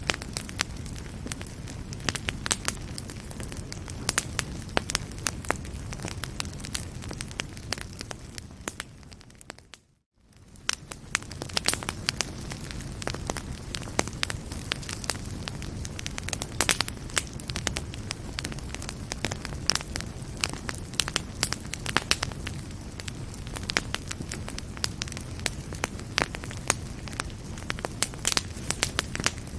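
Fireplace fire burning, with a steady low rumble and frequent sharp crackles and pops. The sound briefly fades out to near silence about ten seconds in, then comes back.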